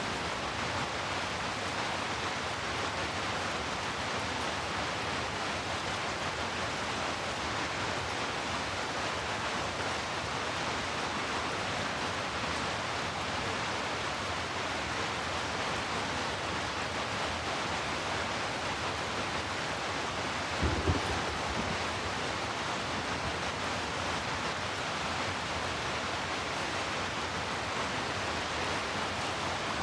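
Heavy rain falling steadily, an even rushing hiss with a deep low end. A brief low thump stands out about two-thirds of the way through.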